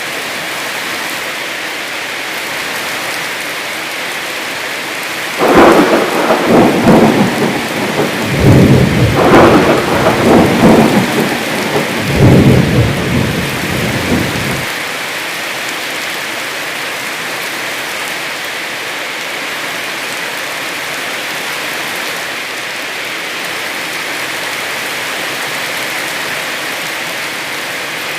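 Heavy rain falling steadily, with a long rumble of thunder about five seconds in that rolls on in several swells for about nine seconds before the rain is left alone.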